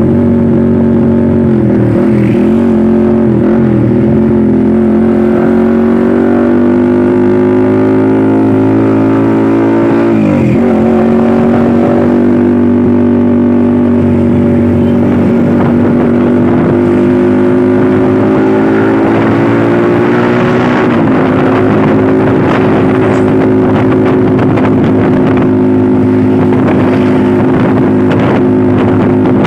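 Truck engine pulling hard under acceleration. Its pitch climbs slowly and drops sharply at gear changes about ten seconds in and again about twenty seconds in.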